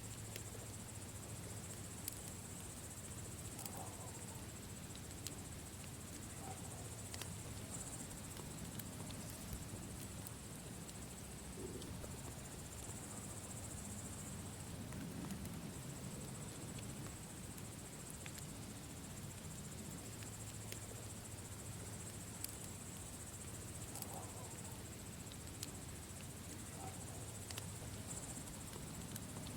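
Wood campfire crackling, with sparse sharp pops every second or few, over a steady high insect chirring like crickets.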